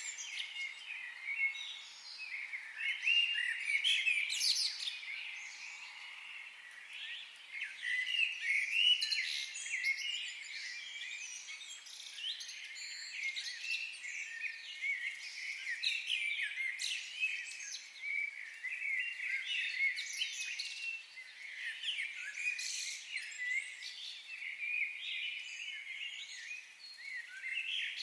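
Many small birds chirping and singing over one another in a dense, continuous chorus of quick, high chirps.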